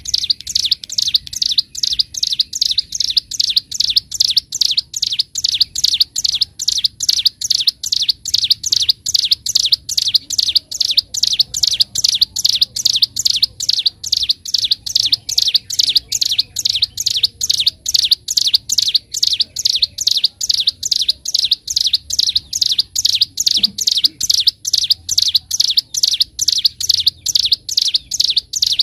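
Ciblek gunung (a mountain prinia) singing a long unbroken series of rapid, evenly spaced high chirps, about three a second.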